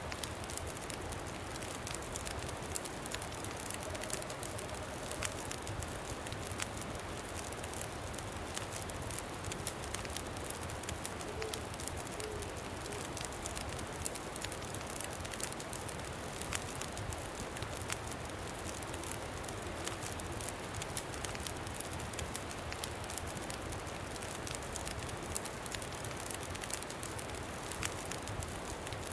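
Campfire crackling with many small sharp pops over a steady rush of wind.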